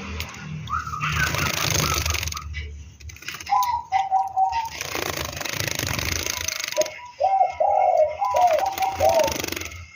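Doves cooing in short repeated phrases, with bursts of rushing noise in between.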